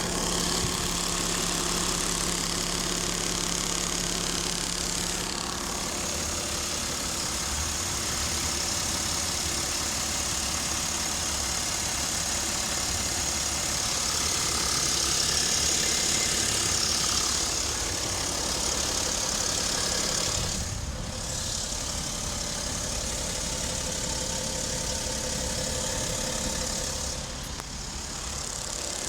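BMW X5 E70 3.0d diesel engine idling steadily, recorded by phone. Over the idle there is a steady hiss that the owner takes for the timing chain and a light knock he suspects comes from the water pump bearing.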